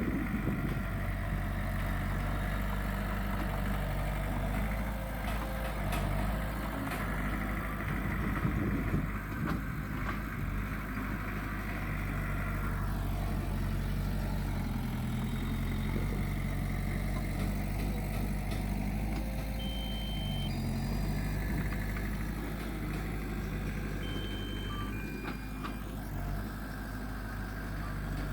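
Diesel engine of heavy earthmoving machinery running steadily at low revs, its pitch dipping briefly twice in the second half.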